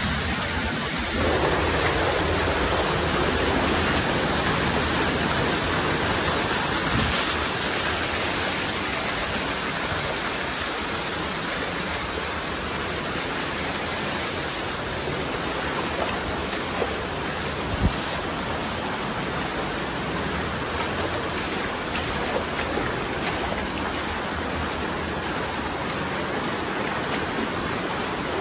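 Waterfall water rushing in a steady, even roar, with a few brief knocks about two-thirds of the way through.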